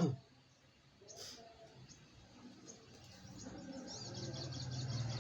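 Bird chirping in a fast run of high, short notes starting about three seconds in, over a low steady hum.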